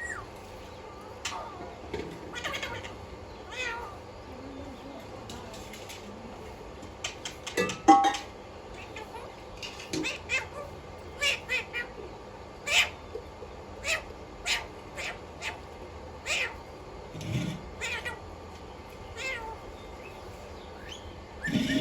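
Alexandrine parrot giving a string of short, separate calls and squawks with pauses between them, the loudest about eight seconds in.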